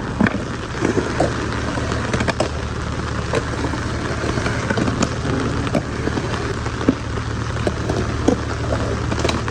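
Rain falling outdoors over a steady low rumble, with scattered sharp taps and clicks.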